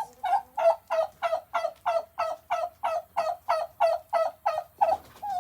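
Turkey calling: a long run of evenly spaced notes, about three a second.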